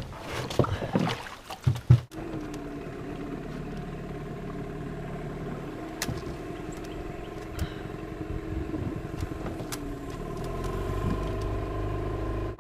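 Outboard motor on a john boat running steadily at low speed, growing a little louder near the end. A few sharp knocks come in the first two seconds, before the motor is heard.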